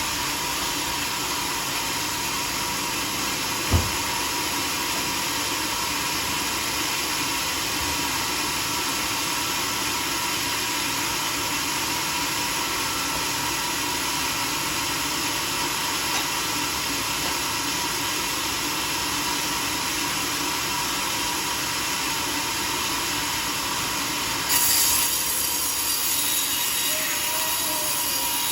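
Sawmill running steadily while sawing a teak log. A single sharp thump comes about four seconds in. Near the end the sound steps up, with a louder high hiss.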